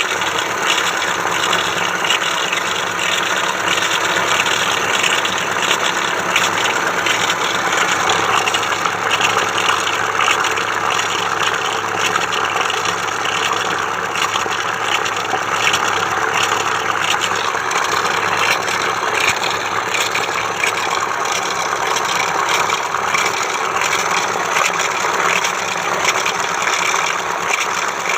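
Tata Intra V30 pickup's diesel engine idling steadily.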